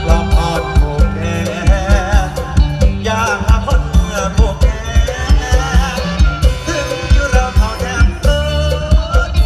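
Live mor lam band music: a steady, driving drum beat under a wavering melody line.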